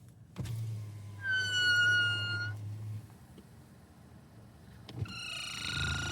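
Nissan Sentra B18 power window in use: a click, then the window motor runs for about two and a half seconds while the glass and lifter give a high-pitched creak. A second click about five seconds in brings another creak. The creaking comes from the window lifter mechanism.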